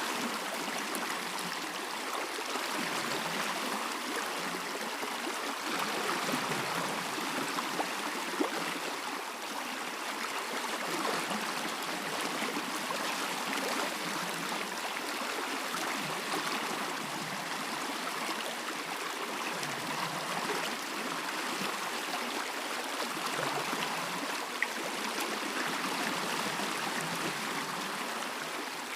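Stream water running steadily, an even rushing babble that swells and eases only slightly.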